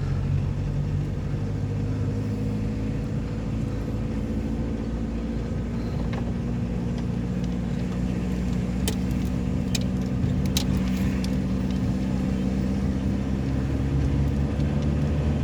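A vehicle engine running steadily at one constant pitch. A few sharp clicks come about halfway through.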